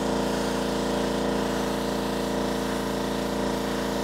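Pressure washer's small engine running steadily, with the water jet hissing against the concrete.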